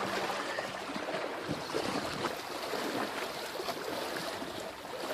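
Floodwater splashing and sloshing in small irregular strokes, as people move through it.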